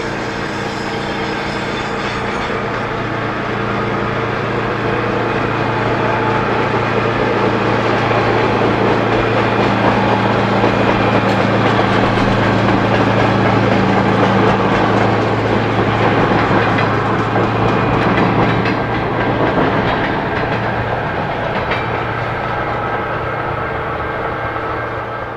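Diesel-hauled maintenance-of-way work train passing close by, its flatcars loaded with track machinery. A steady low engine drone runs under the rolling and clatter of wheels on the rails. The sound builds to its loudest around the middle and eases a little near the end.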